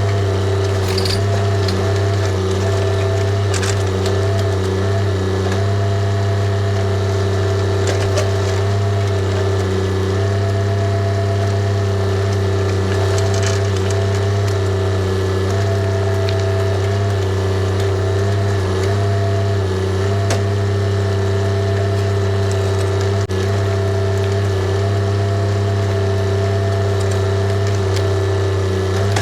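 Diesel engine of a TYM tractor backhoe running steadily at constant speed while it digs, with scattered clicks and knocks over it.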